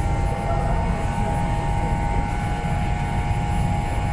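Steady low rumble with a constant hum from the machinery of the Salvia Maru passenger ferry under way, heard on board.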